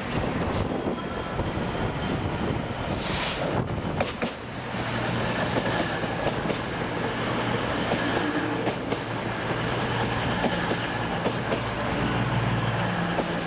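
Long freight train of wagons loaded with new rails, hauled by a Class 66 diesel, rolling steadily past, wheels clicking over the rail joints, with thin high-pitched wheel squeal from about four seconds in.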